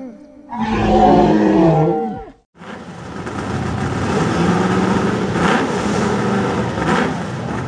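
A short pitched sound with falling tones, then after a sudden break a drag-racing vehicle's engine running, growing louder through the last few seconds.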